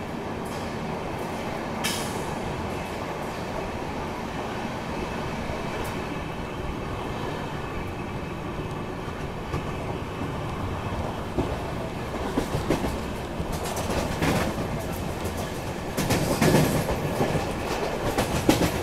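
Indian Railways express train running at speed: a steady rumble of wheels on the track, with irregular clacks over the rail joints coming in past the middle and growing louder near the end.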